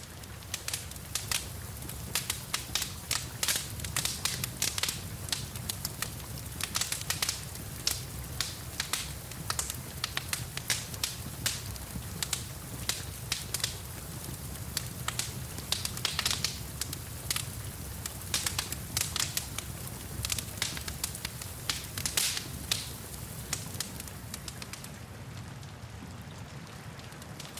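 Wood fire in a fireplace crackling, with frequent sharp pops and snaps that thin out near the end, over a steady background hiss and low rumble.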